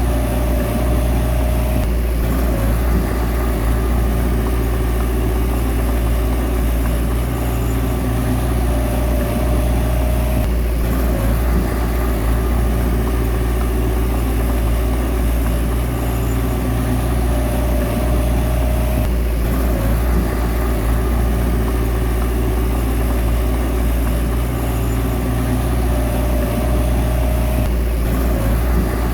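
Bulldozer's diesel engine running steadily under load, a deep continuous drone, with a short higher tone recurring about every eight and a half seconds.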